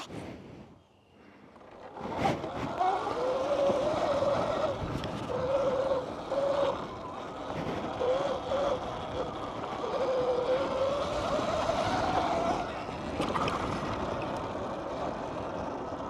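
Dirt bike being ridden on a dirt track, starting with a sharp noise about two seconds in. Its motor whine rises and falls with the throttle, climbing in pitch near the end, over steady wind and tyre noise.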